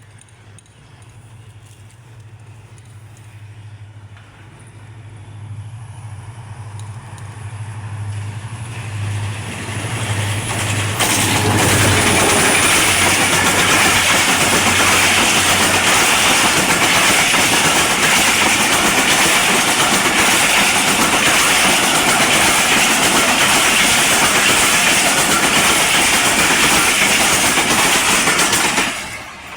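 Diesel locomotive approaching, its engine's low hum growing louder over the first ten seconds or so. Then the train passes close by with a loud, steady rush of wheels on rail, which cuts off suddenly near the end.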